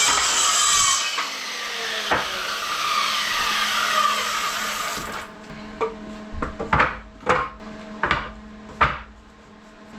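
Carpentry noise on lumber: a power tool runs loudly for about five seconds, its pitch sliding down in places, then about six sharp knocks on wood follow.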